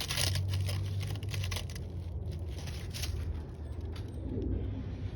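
Irregular rustling and crackling, like leaves or plants being moved, over a steady low rumble.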